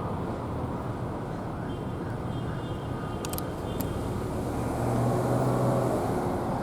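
Low rumble of a vehicle engine, swelling louder about five seconds in, with a few sharp clicks a little past three seconds in.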